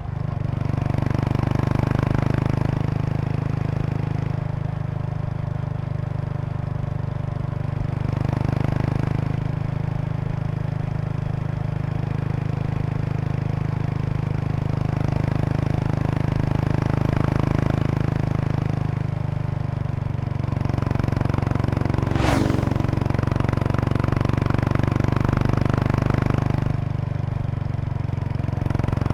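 Kawasaki Estrella RS's single-cylinder four-stroke engine running through an aftermarket Yamato muffler while riding at an easy pace, its exhaust note swelling and easing every few seconds. A faint buzzing rattle comes from a seat bag's stiffener board resonating with the engine vibration, with one sharp tick about two-thirds of the way in.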